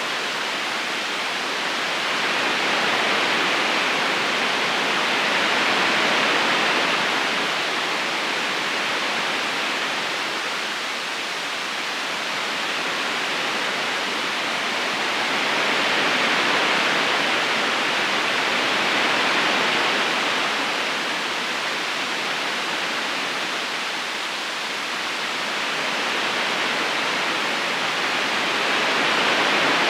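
Steady rush of a river current running over stones, a dense even hiss of water that swells and eases slowly every several seconds.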